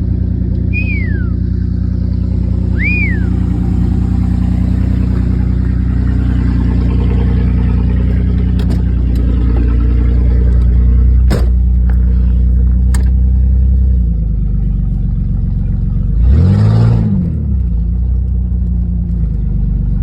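A vehicle engine running steadily at a constant speed, revving up and back down briefly about sixteen seconds in. Two short falling chirps sound in the first few seconds, and a few sharp clicks come around the middle.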